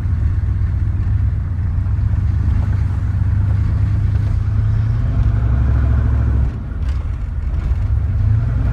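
1993 Chevy 1500's Detroit 6.5-litre turbo diesel V8 running as the truck is driven, a deep steady drone. It builds a little over the middle seconds and eases off about six and a half seconds in.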